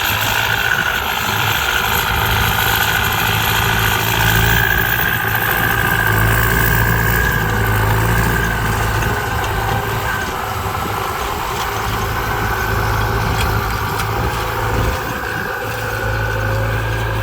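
ZT 155 tractor engine running steadily, with a high whine over it that is strongest for the first ten seconds or so and then fades.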